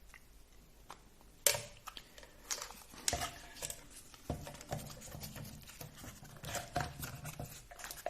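Small plastic RC car suspension parts being handled and fitted by hand: scattered clicks and rattles, with one sharp click about a second and a half in, as the suspension arm's pins are worked into place.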